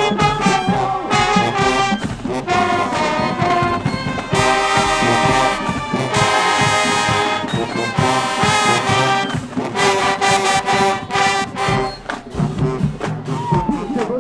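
High school marching band playing its field show: the brass, trombones and trumpets among them, play loud held chords over marching percussion.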